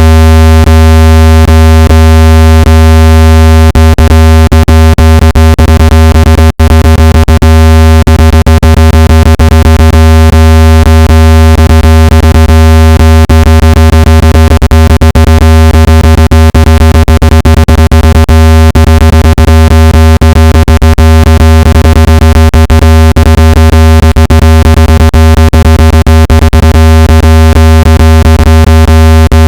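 Loud, steady, low-pitched electronic tone for cleaning dust out of a phone speaker, a buzz with many overtones, broken by frequent irregular clicks. It drops out for an instant about six and a half seconds in.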